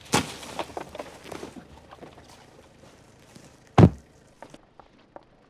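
A car door is shut with a single heavy thud about four seconds in, after a stretch of rustling and light knocks.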